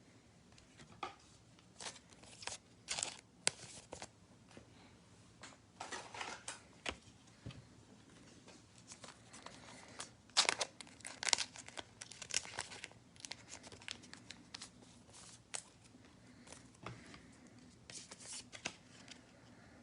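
Plastic card-pack wrapper crinkling and rustling in the hands as trading cards are handled. It comes as irregular short crackles and taps, busiest about halfway through.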